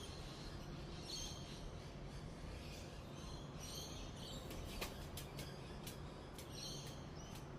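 Birds chirping faintly in short repeated bursts over a low steady background hum, with several sharp ticks in the second half.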